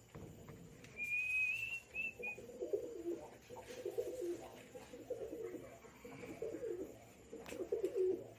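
Pet parrot making soft, low warbling coos in a string of short phrases, with a brief thin whistle about a second in.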